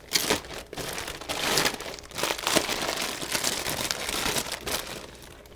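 Crinkling and rustling of spinach packaging as spinach is handled, in quick irregular crackles that thin out near the end.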